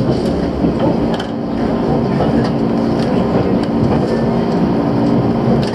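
Steady electrical hum of trains standing at a station platform, heard from inside the passenger cabin of a stationary 185 series train, with a couple of faint clicks.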